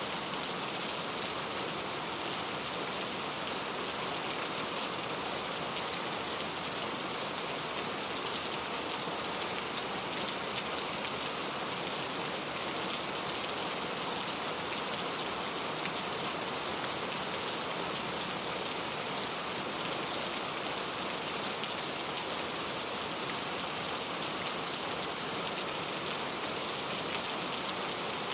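Steady rain falling and pattering on a surface, a dense even hiss with fine individual drop ticks.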